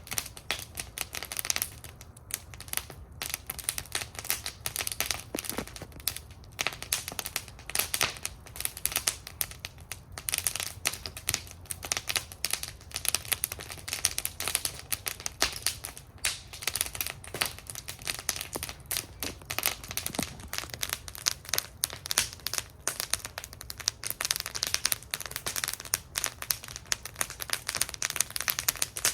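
Wood fire burning in a fire bowl, crackling with a dense, irregular run of sharp pops and snaps over a low, steady rumble of flame.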